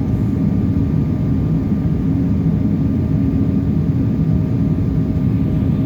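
Steady drone of an airliner cabin in flight, engine and airflow noise with a faint steady hum above it.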